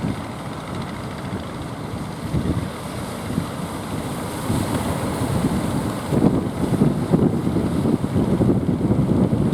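Strong wind buffeting the microphone, an uneven low rumble that grows stronger about six seconds in.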